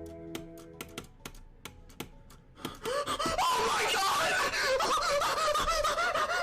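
A series of light, sharp clicks, then about three seconds in several people break into loud, excited laughing and shrieking that carries on.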